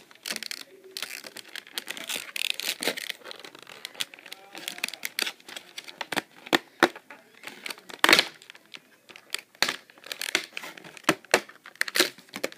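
Packaging being handled: crinkling and tearing, with many sharp clicks and taps scattered throughout.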